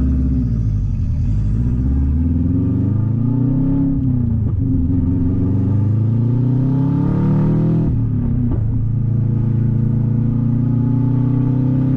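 Subaru wagon's turbocharged flat-four running through a 3-inch catless open downpipe, loud and raspy. It revs up through the gears: the pitch climbs, drops sharply about four seconds in and again about eight seconds in, then holds steady at cruise.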